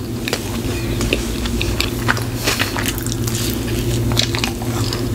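Close-miked eating of a grilled cheese sandwich with tomato: bites and chewing, many short wet smacks and crackles one after another. A steady low hum runs underneath.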